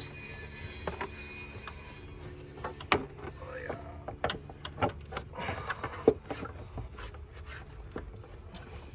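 Scattered metal clicks and clinks of hand tools and engine parts being handled, with a faint steady hum for the first couple of seconds.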